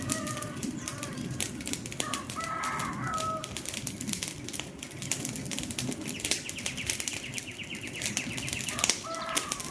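Wood fire crackling, with many irregular sharp snaps and pops over a low rushing bed. A bird calls in short pitched phrases at the start, again about two and a half seconds in, and near the end.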